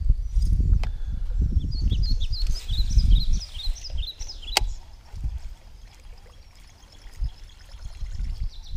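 Birds chirping in a quick run of short high calls, over an uneven low rumble. There is a single sharp click about four and a half seconds in.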